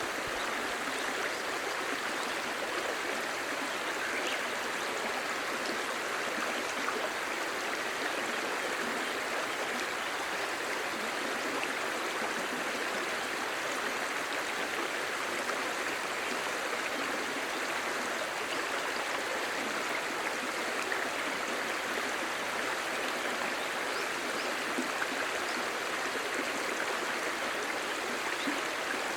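Clear stream babbling steadily over stones, an even rushing murmur with small splashes and trickles.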